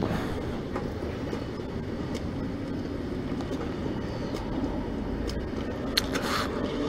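Steady low rumble of motor vehicle engine noise, with a short sharp click about six seconds in.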